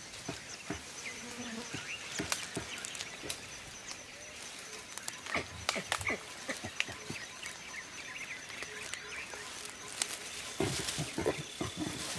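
Forest ambience: insects buzzing with a thin steady high tone, over scattered short snaps and rustles.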